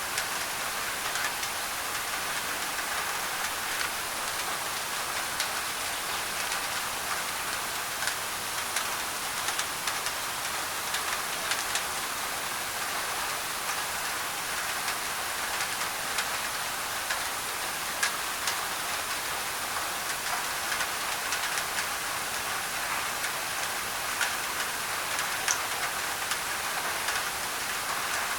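Steady rain on a thin tin roof, a dense hiss with scattered sharper drop ticks, blended with white noise.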